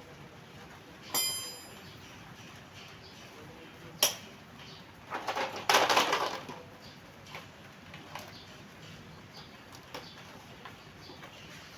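A small metal part or tool struck or dropped, ringing briefly with a bright clink, then a sharp knock a few seconds later. A rough scraping or rustling noise follows, lasting about a second and a half.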